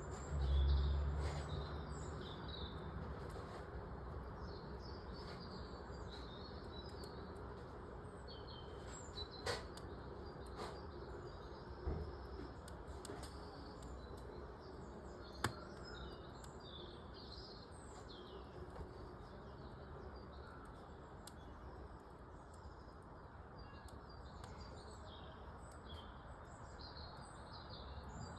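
Small birds chirping and twittering continually over a low steady hiss, with a few sharp pops from a wood fire crackling. A brief low rumble sounds right at the start.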